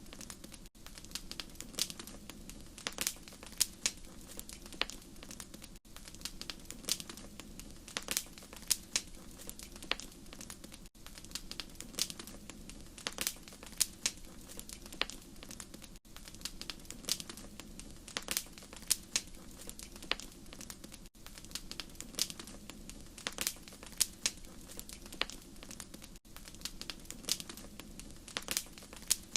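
Wood fire crackling, with frequent irregular sharp pops and snaps over a steady low rumble. The sound dips briefly about every five seconds.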